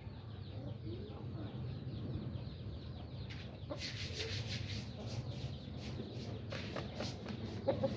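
Chickens clucking, with rustling and scraping noises through the second half.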